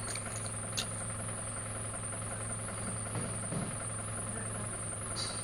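Steady low electrical hum with a constant high-pitched whine from a switched-on Linde E16C electric forklift, with a couple of faint clicks.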